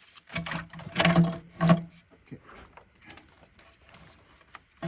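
A sensor being wrenched off by hand under a BMW's intake manifold: three loud, strained creaks in the first two seconds as it is pulled, then light clicks and taps.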